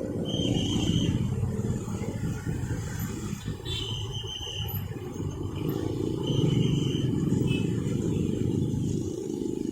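Road traffic at a railway level crossing: a steady low rumble of passing cars and motorbikes, with a few brief high-pitched tones.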